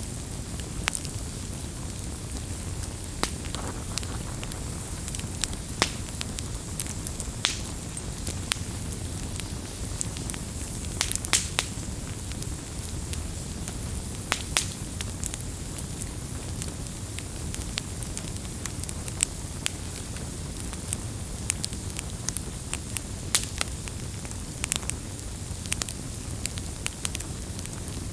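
Wood campfire burning: a steady low rumble of flame with irregular sharp crackles and pops of the burning wood.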